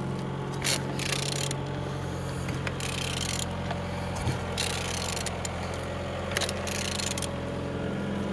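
EF58AXG engine being turned over by hand for a rotation check: repeated short scraping and ratcheting noises of the tool on the crankshaft, over a steady low hum.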